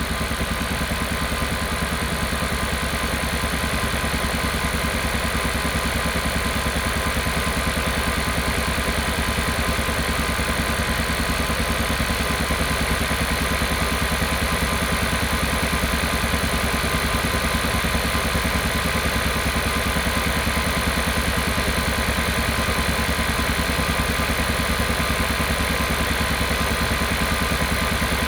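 Kia Carnival Hybrid's 1.6-litre turbo four-cylinder engine running steadily with a rapid, even 'puck-puck-puck' pulsing, the engine noise the owner is documenting as a problem.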